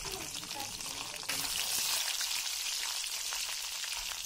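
Chopped coconut pieces sizzling and crackling in hot coconut oil in a pan, a steady hiss with fine crackles that turns louder about a second in.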